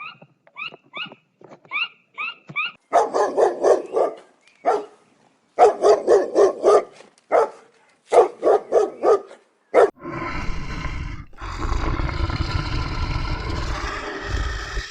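A dog barking in quick bursts of several barks, preceded by short, high, rising yips. About ten seconds in, the barking gives way to a long, low, rough animal rumble.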